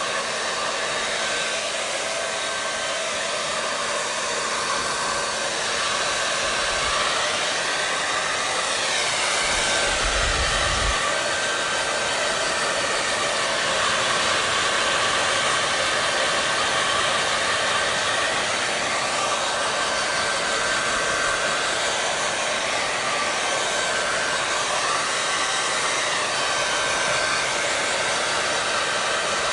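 Hair dryer blowing steadily, a dense airy hiss whose tone slowly shifts up and down now and then, with a brief low rumble about ten seconds in.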